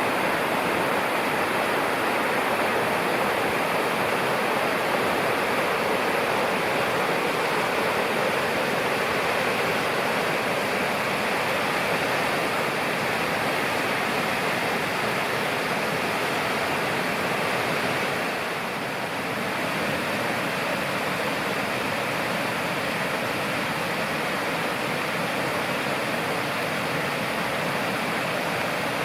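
A mountain river rushing: a steady wash of water noise that dips briefly about two-thirds of the way in.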